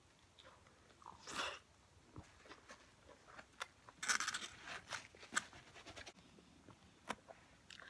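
Close-up chewing of a fresh rice-paper spring roll with shrimp and lettuce: soft, wet mouth sounds and scattered clicks, with a short louder burst about a second in and a cluster of louder chewing noises around four to five seconds in.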